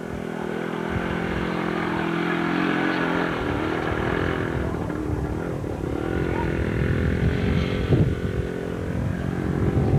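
Dirt bike engine running, its pitch holding steady for a few seconds and then falling and rising again as the rider works the throttle.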